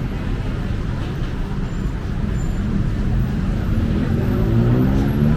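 City street traffic: a steady low rumble of vehicle engines, with one engine rising in pitch as it speeds up near the end.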